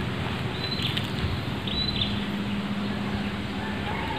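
Steady outdoor background noise with a faint low hum, broken twice in the first two seconds by a short, high bird chirp.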